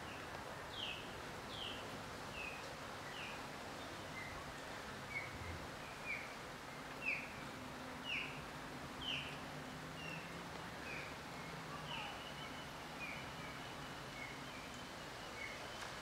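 A bird calling over and over with short, high chirps that fall in pitch, about one a second, over a steady outdoor hiss. A thin steady high tone joins in for the last few seconds.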